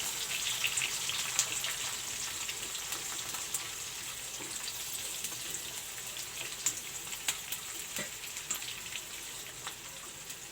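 Chopped onion sizzling in hot oil in a kadhai, with scattered crackles and pops. The sizzle slowly eases off.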